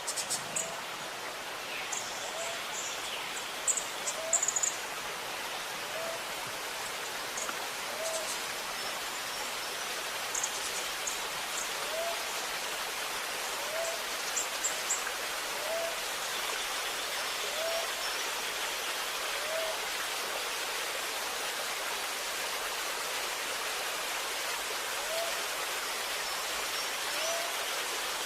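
Steady rush of running water, with small birds giving short high chirps during the first half. Under it, a short low call repeats about every two seconds.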